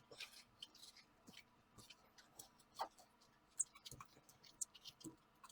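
Faint, scattered crinkles and small clicks of a sound deadener sheet being pressed down and worked into a contour by hand, over a faint low hum.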